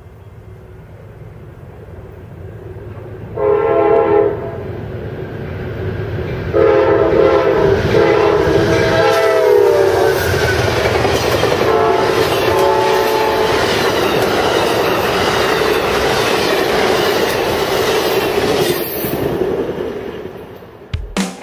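Amtrak passenger train passing at speed. Its locomotive horn sounds a short chord blast a little over three seconds in, then a long blast whose pitch drops as the locomotive goes by, then a fainter third blast. The steady rush and wheel clatter of the passing bilevel cars follows and fades away near the end.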